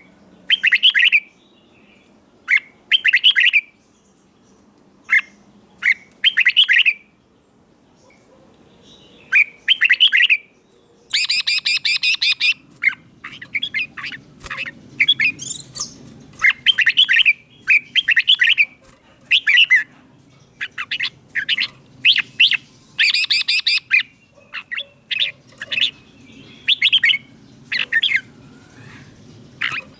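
Red-whiskered bulbul singing its short, bright phrases over and over, with brief pauses between them. The phrases come more densely from about a third of the way in.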